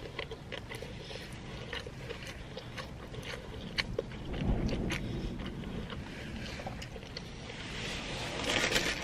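A person chewing a mouthful of sandwich, with many small wet smacks and clicks. A low rumble comes in about halfway through, and a brief hiss near the end.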